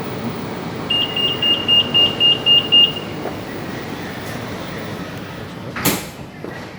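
Metro train door-closing warning: a run of rapid high beeps, about four a second for two seconds, over the steady hum of the stopped train, then the doors shut with a sharp thud near the end.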